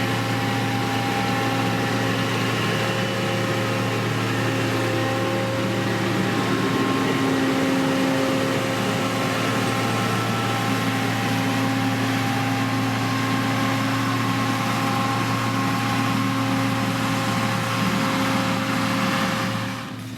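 Diesel engine of a heavy road-construction machine running steadily with a low hum, its pitch wavering slightly; the level falls abruptly just before the end.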